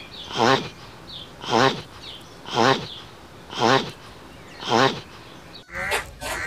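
A short, wavering animal call repeated about once a second, seven times in a row. Near the end it cuts abruptly to a different, busier mix of calls.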